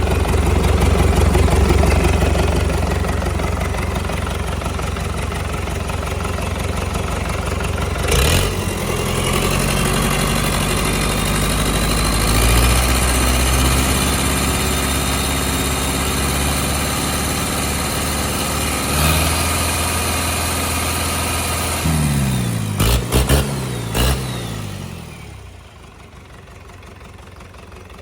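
A four-cylinder 4102QBZL diesel engine running on a stand, its speed shifting up and down several times. There is a sharp knock about eight seconds in and a few more knocks around 22 to 24 seconds. About 25 seconds in the sound drops to a much quieter, steadier level.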